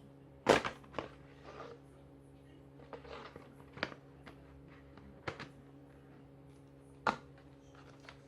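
Plastic parts of a Miele Blizzard CX1 vacuum cleaner's filter housing being handled: a sharp plastic knock about half a second in, then scattered clicks and light rustling.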